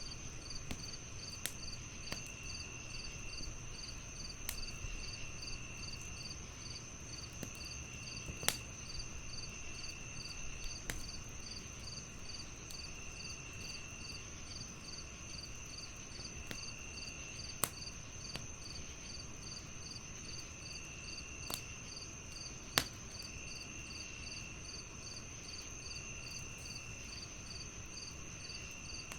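Crickets chirping steadily in a high, even pulse of about two to three chirps a second over a continuous insect drone, with a lower trill coming and going in spells of about a second. A wood fire crackles underneath, with a handful of sharp pops that are the loudest sounds.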